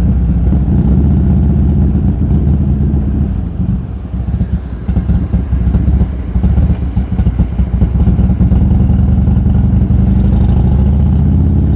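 Buell Lightning XB12S's air-cooled V-twin running through a D&D aftermarket exhaust while riding. The engine note drops away about four seconds in, comes back choppy for a few seconds, then steadies again.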